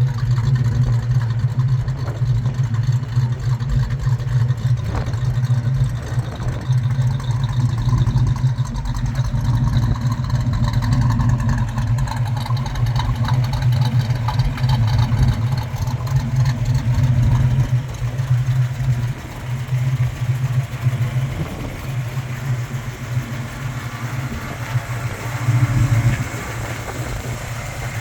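1964 Chevrolet Chevelle idling steadily with a smooth idle and a throaty exhaust note. It becomes a little quieter from about two-thirds of the way through.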